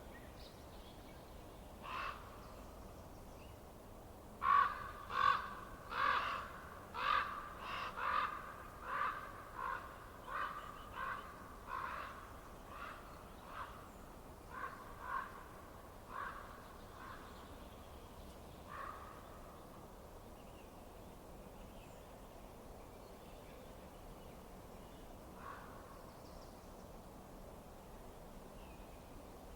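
A bird calling: one short call about two seconds in, then a run of some sixteen short calls at about one to two a second that grow weaker. One or two single calls follow further apart, over a steady low background hiss.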